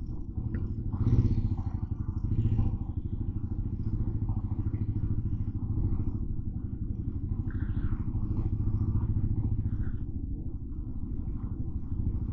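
Motorcycle engine running steadily while riding, swelling briefly about a second in and again near two and a half seconds as the throttle opens.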